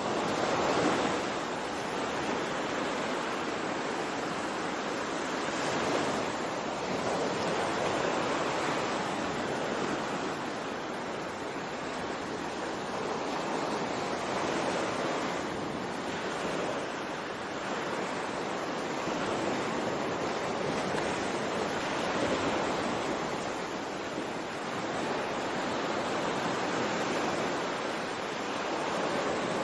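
Continuous rushing water noise that swells and eases every several seconds.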